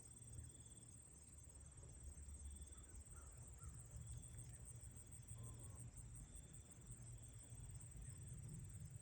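Faint, steady, high-pitched insect trill, of the cricket kind, with a second set of short chirps repeating about every second and a half, over a low rumble.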